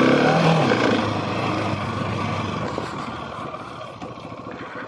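Husqvarna 701 Supermoto's single-cylinder engine riding off-road, its note easing off and fading as the throttle closes, over a steady rushing noise.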